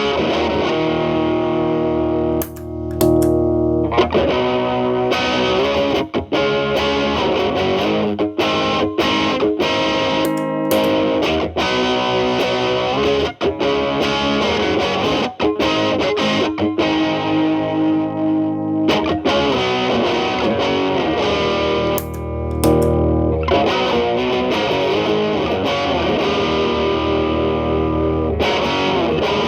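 Telecaster through an early-version MI Audio Crunch Box distortion pedal set to gain 10, into a Marshall Valvestate amp's clean channel, with the drive cleaned up. It plays ringing chords and single notes, broken by brief stops about two and a half seconds in, around ten seconds and around twenty-two seconds.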